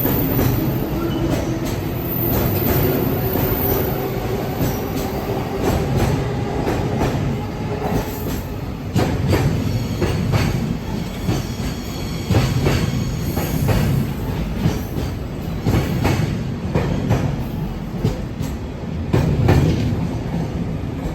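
Freight train pulling out and rolling past, its wheels clacking irregularly over rail joints under a steady low rumble, with a faint wheel squeal around the middle.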